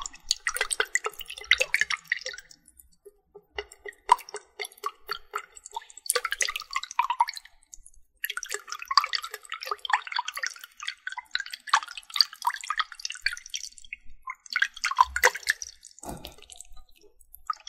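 Water dripping and splattering in bursts of many small drops, with short pauses between the bursts.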